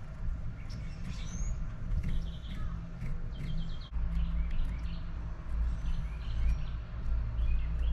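Small birds chirping and calling, with short rising notes and a quick run of repeated notes a few seconds in, over a steady low rumble.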